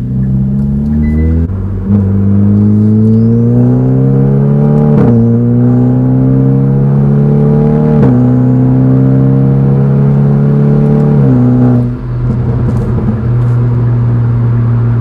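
Hyundai i30N's 2.0-litre turbocharged four-cylinder, through a sport-cat downpipe and 3-inch valved exhaust with the valve open, accelerating hard: the engine note climbs and drops sharply at each of three quick dual-clutch upshifts. About twelve seconds in the throttle closes and it settles to a steady cruising drone.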